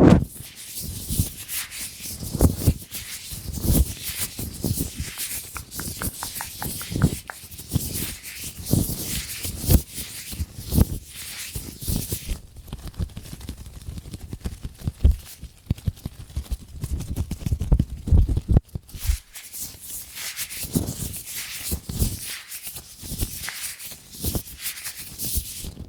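Latex gloves handled close to the microphone: an uneven run of rubbing and scratchy crackle with many small sharp clicks.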